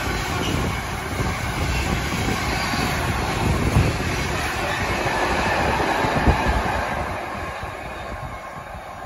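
Empty container flat wagons of a freight train rolling past, a steady rumble of wheels on rail with a sharp knock near the middle and another a couple of seconds later. The sound dies away after about seven seconds as the last wagons clear.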